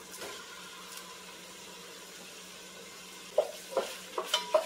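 Raw ground turkey, onion and garlic sizzling softly in oil in an enameled cast-iron pot. From about three and a half seconds in, a wooden spoon knocks and scrapes in the pot about five times as it starts breaking up the meat.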